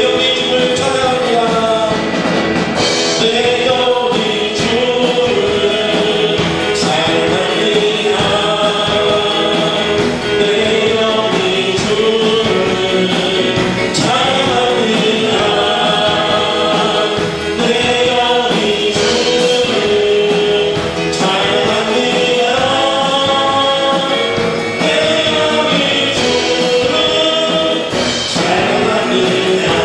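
Church praise-and-worship music: a group of voices singing a worship song together over instrumental accompaniment, loud and unbroken.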